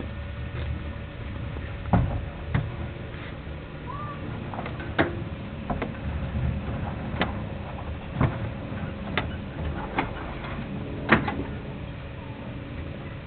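1965 Jeep CJ-5 on the move, a low rumble broken by a string of sharp metallic clunks, roughly one a second at uneven spacing. It sounds like loose metal banging. The clunk comes when coasting or braking, at a rate that follows road speed, and the owner suspects play in the rear differential's spider gears.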